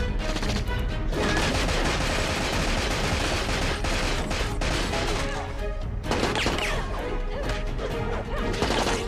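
TV action-scene soundtrack: rapid gunfire and crashing impacts over dramatic score music.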